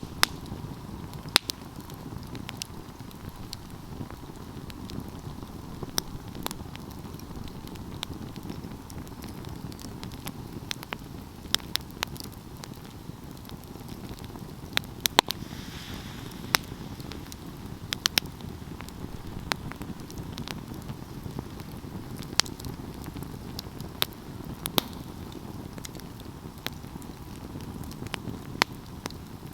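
Wood fire burning with a steady low rumble and irregular sharp crackles and pops, a few louder snaps among them. A short hiss comes about halfway through.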